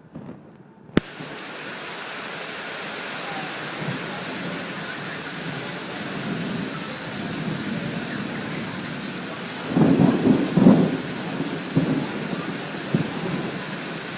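Thunderstorm: steady rain hiss after a sharp click about a second in, with a burst of thunder rumbling about ten seconds in and smaller rumbles after it.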